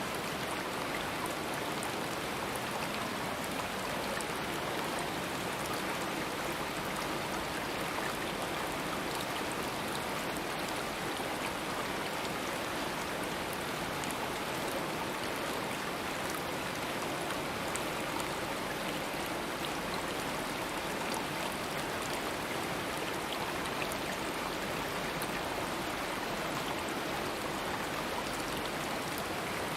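Stream water running over rocks, a steady rushing with fine splashing and no change in level.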